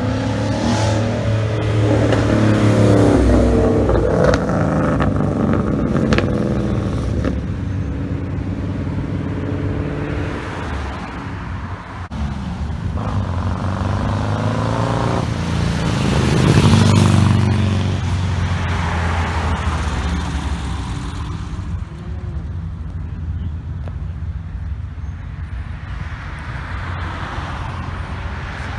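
Car engines revving and accelerating as cars drive past one after another, over a steady low engine drone. The loudest passes come a few seconds in and just past the middle.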